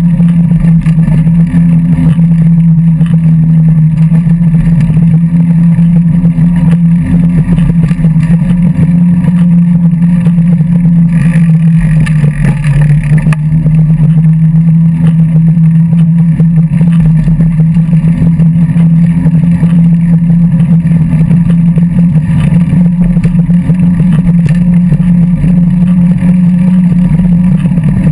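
A vehicle engine drones steadily at an even pitch, easing down briefly about twelve seconds in.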